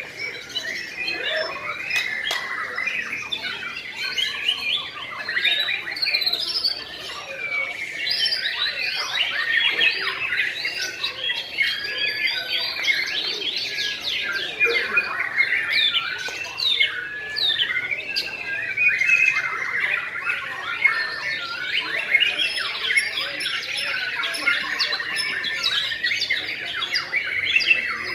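White-rumped shama singing without a break: a rapid, varied stream of whistled and chattering phrases that keep changing in pitch. The bird is in full song, running through its repertoire.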